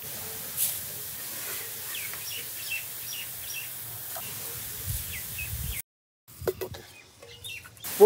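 Small birds chirping again and again over a steady hiss of outdoor background noise. The sound cuts out for a moment about six seconds in, and a few sharp clicks follow.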